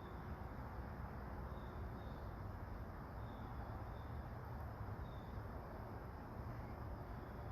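Soft rain falling steadily, with a low rumble underneath. A few faint, short high chirps come through over it.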